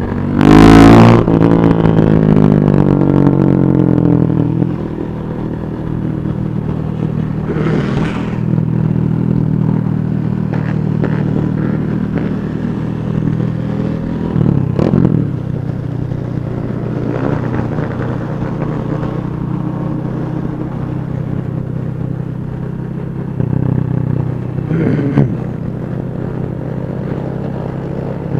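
Many motorcycle engines running together at low speed, with occasional revs. A loud burst about a second in is followed by an engine's pitch falling away over a few seconds.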